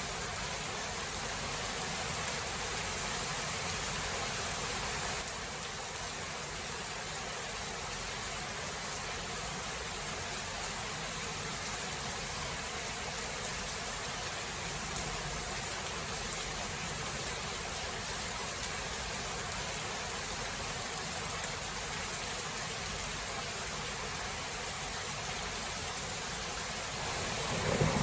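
Steady rain, an even hiss with no distinct drops or rhythm; a thunder rumble begins to build right at the end.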